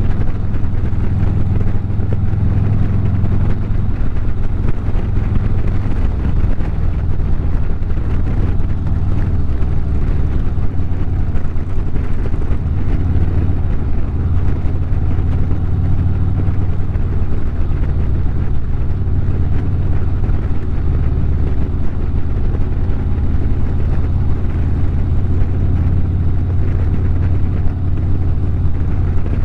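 Harley-Davidson V-twin motorcycle engine running steadily at highway cruising speed, with a low, even exhaust note under a haze of road and wind noise.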